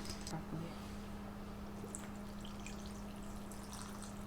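Faint small splashes and clicks of berries in coconut water being moved about in a bowl, over a steady low electrical hum.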